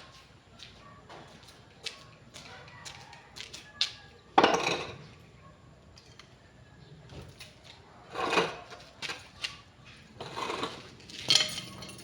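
Irregular clicks and clattering of small hard objects being handled, with a few louder clatters about four, eight and ten to eleven seconds in.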